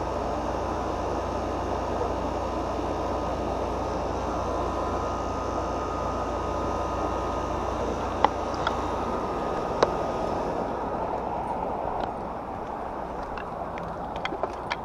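Central air conditioner condensing unit running steadily, compressor hum under the condenser fan, while the technician suspects the system is low on refrigerant. Two sharp clicks come a little past the middle.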